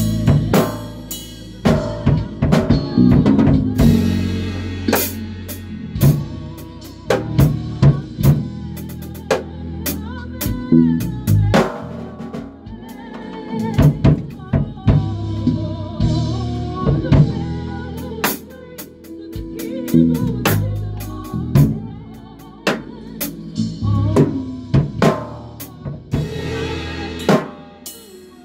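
A band playing live: a drum kit with kick and snare hits over long held notes on a bass guitar, with other pitched instrument lines above.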